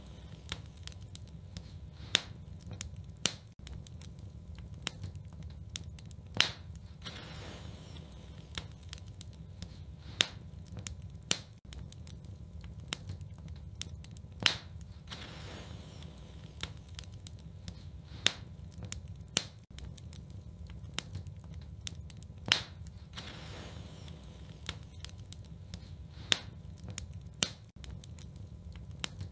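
Wood fire crackling in a fireplace: sharp, irregular pops about once a second over a low, steady rumble of the flames, with occasional soft hissing.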